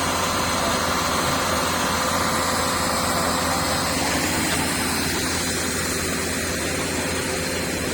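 Welding equipment running: a steady hum with an even hiss over it, unchanging throughout.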